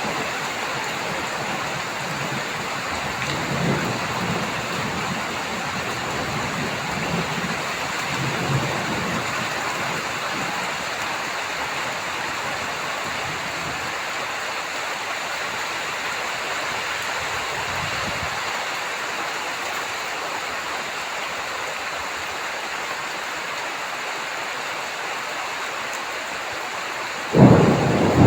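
Heavy rain falling steadily with thunder rumbling during a thunderstorm. There are low rumbles in the first third, and a sudden loud thunderclap near the end.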